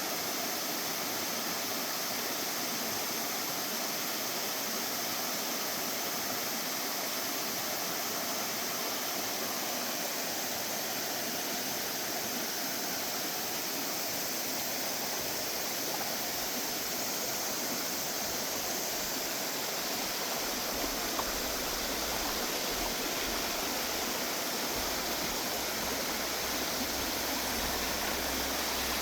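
Valley stream water flowing with a steady rushing sound. A low rumble comes in about two-thirds of the way through.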